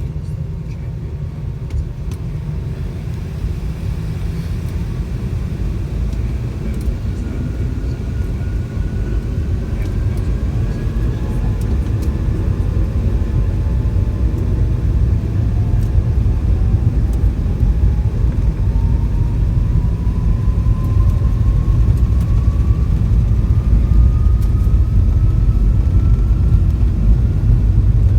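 Cabin sound of a McDonnell Douglas MD-90's rear-mounted IAE V2500 turbofans spooling up for takeoff: a deep rumble that grows steadily louder, with a whine rising in pitch from about a third of the way in.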